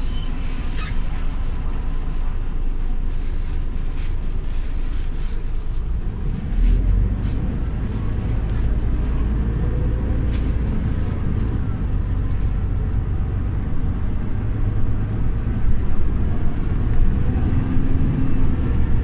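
Scania OmniLink CL94UB city bus's five-cylinder diesel engine running. About six seconds in it comes under load and pulls harder, its tone rising as the bus accelerates.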